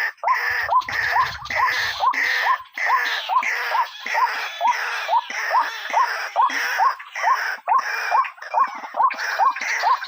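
White-breasted waterhen (ruak-ruak) calling: a fast, unbroken run of harsh repeated notes, each rising quickly in pitch, about two to three a second.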